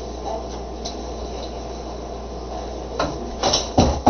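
A steady low background hum, then a quick series of sharp knocks or clatters in the last second, the final one the loudest.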